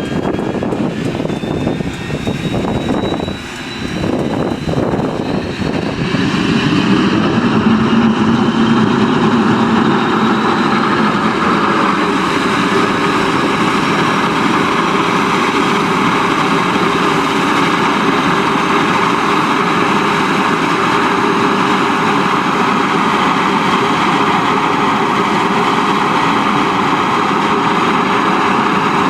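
Sikorsky S-58T helicopter's Pratt & Whitney PT6T Twin-Pac turboshaft engine starting up: a rising whine for the first few seconds, then about six seconds in it gets louder and settles into a steady turbine whine and rush.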